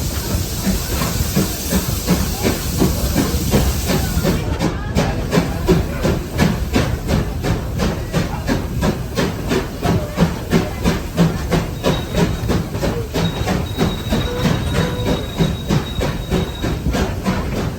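Heritage train on the move: a hissing rush for the first four seconds or so, then a steady rhythmic clatter of about two to three beats a second, with a faint high thin tone in the later seconds.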